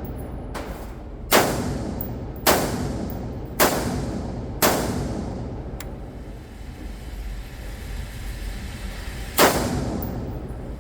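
Handgun shots echoing in an indoor range: four sharp shots about a second apart, then one more after a pause of about five seconds, each followed by a long echo.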